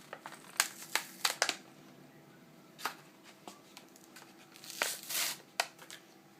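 Cardboard and plastic toy packaging being opened by hand: a quick cluster of sharp crinkles and snaps about a second in, another near three seconds, and a longer tearing rustle around five seconds.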